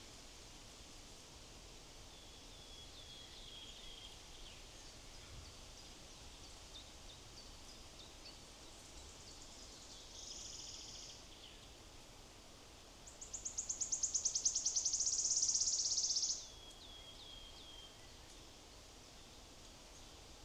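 Small woodland songbirds calling over a faint outdoor hiss: runs of short, falling chirps, a brief buzzy note about halfway, and a loud, fast, high trill about three seconds long, starting as separate rapid pulses that run together.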